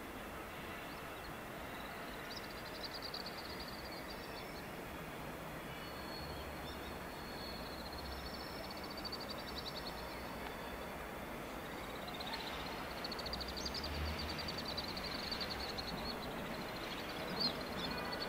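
Trains rolling slowly into a large station over its tracks and points: a low, steady rumble that grows louder in the second half. Over it come several spells of high, rapid chirring, each a few seconds long.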